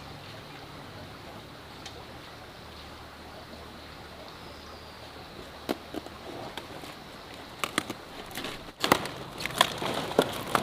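Cabbage being cut and snapped apart: a run of short, sharp, crisp cracks and knocks that starts about halfway and comes thicker and louder near the end, over a faint steady background.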